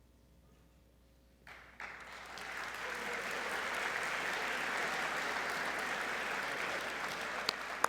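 Audience applauding, starting suddenly about a second and a half in and holding steady, with a few sharper claps near the end.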